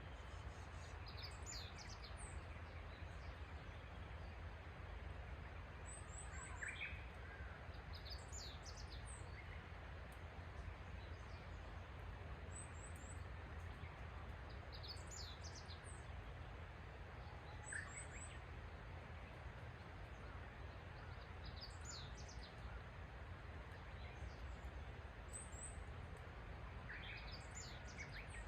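Small birds chirping in the morning, short high calls and trills coming every few seconds, over a faint steady background hum.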